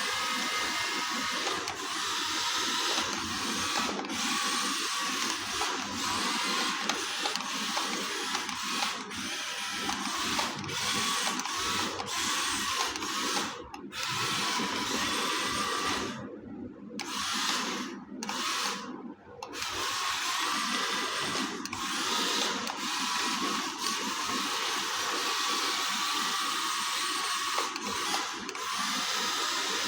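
Small electric motor and gearbox of a radio-controlled mini tractor whining as it drives, cutting out briefly twice past the middle.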